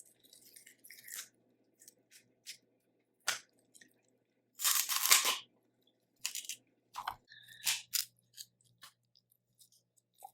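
Close-up eating sounds from a Cajun seafood boil: chewing and scattered small clicks and crunches, with one louder crackling crunch about five seconds in.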